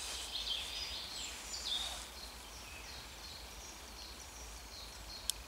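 Woodland birds singing: a run of short, high chirps and sliding notes that thins out after about two seconds. A single sharp click near the end.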